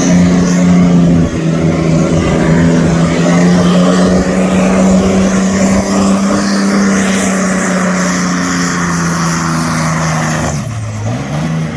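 Heavily modified tractor-pulling engine held at full throttle while dragging the weight sledge, a steady high drone whose pitch sags slightly as the load builds. Near the end the throttle is cut and the engine note drops sharply, marking the end of the pull.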